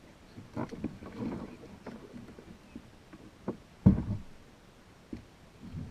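Scattered knocks and bumps on a fishing kayak, the loudest thump about four seconds in.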